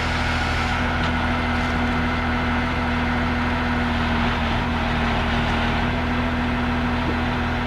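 A large engine idling steadily, a constant even hum with no revving.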